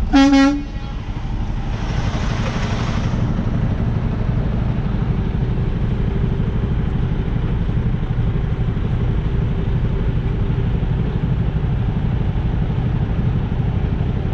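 Semi truck's diesel engine running steadily at low speed. Right at the start a short, loud pitched tone sounds for about half a second, and about two seconds in there is a brief hiss.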